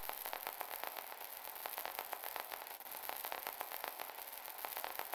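Faint hiss of static with irregular crackling clicks, several a second.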